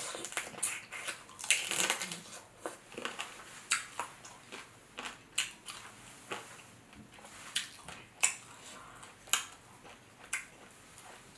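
Dungeness crab shell cracking and crunching up close, in a run of sharp, irregular snaps, while the meat is picked out and eaten.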